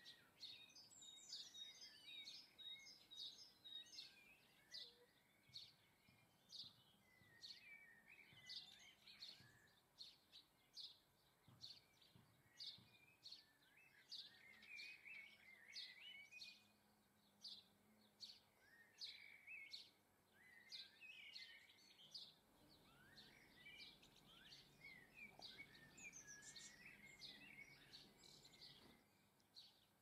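Small garden birds chirping and twittering, faint: short high chirps repeating about twice a second, with softer warbling twitters between them.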